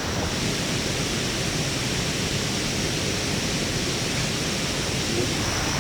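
Steady rushing noise with no distinct events and a faint high whine above it.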